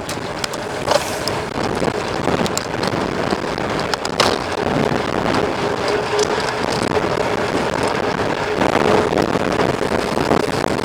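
Wind rushing over the microphone of a mountain bike being ridden, with scattered clicks and knocks from the bike over rough ground.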